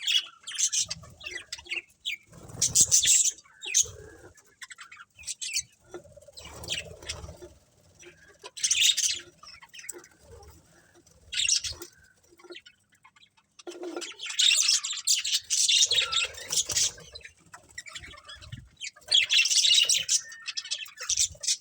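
A colony of budgerigars chirping and chattering in bursts, with short quieter gaps between them and a few low thumps.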